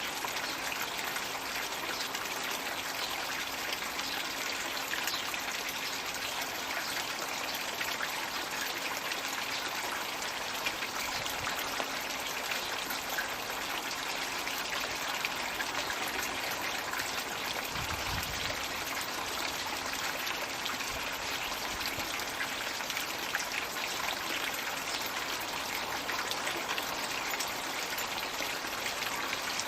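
Floating Magic Bucket pond water feature running: a steady trickle and splash of water pouring down into the pond.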